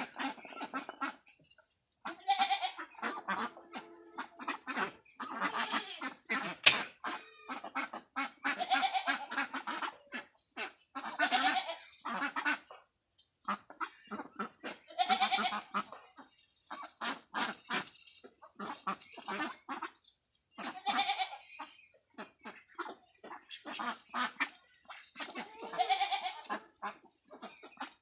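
A flock of ducks quacking, with loud bouts of calls every couple of seconds and short clicking sounds between them.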